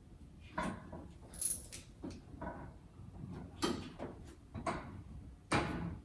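Hand tools and metal parts clinking, knocking and rattling in an irregular string of sharp hits. One has a brief high metallic ring about a second and a half in, and the loudest knock comes near the end.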